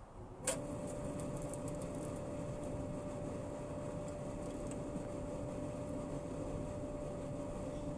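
Clothes dryer starting up, heard at its outside exhaust vent: a sharp click about half a second in, then a steady hum over the rush of exhaust air.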